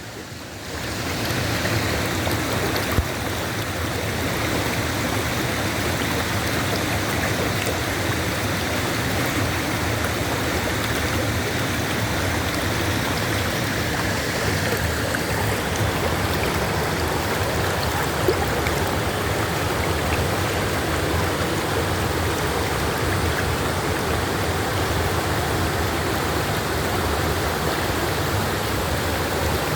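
Waterfall: a steady rush of falling water, fading in over the first second.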